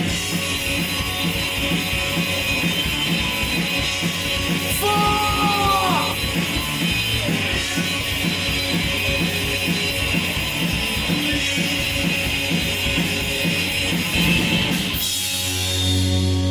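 Loud rock music: guitar over a steady drum beat, ending about fifteen seconds in on a held low note.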